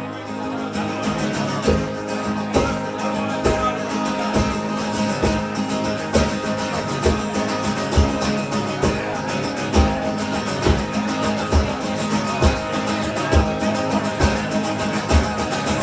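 Live acoustic guitars playing an instrumental passage of a song, with a steady low beat thumping a little under once a second.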